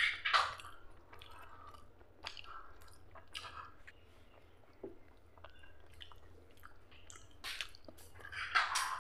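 A person chewing and biting soft, fatty mutton curry, with irregular mouth sounds that are loudest near the start and near the end, over a faint steady low hum.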